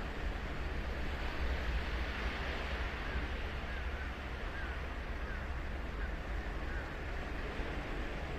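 Ocean surf breaking and washing up a sandy beach: a steady rushing noise with a low rumble underneath. A few faint, short, high chirps come through now and then.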